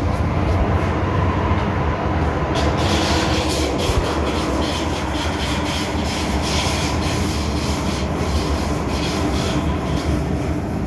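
MTR M-Train electric multiple unit running on the Island Line, a steady heavy rumble with a faint steady whine. From about two and a half seconds in, a run of sharp clicks and rubbing wheel-on-rail noise joins it.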